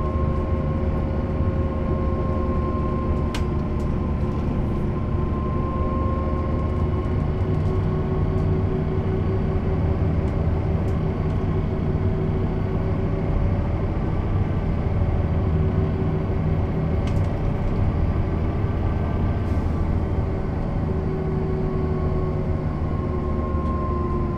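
Mercedes-Benz O 407 bus with manual gearbox running along at a steady speed: a continuous diesel drone with a steady whine above it, its pitch holding nearly level and easing slightly near the end. A couple of faint clicks come through.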